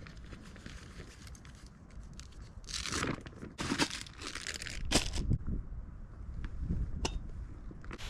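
Several short bursts of rustling and crinkling from material being handled, with a few sharp clicks near the end, over a low wind rumble on the microphone.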